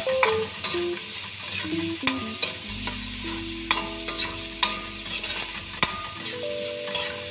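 Diced ham and hotdog with garlic sizzling in oil in a metal wok while a metal spatula stirs and scrapes them. The spatula clicks sharply against the pan every second or so.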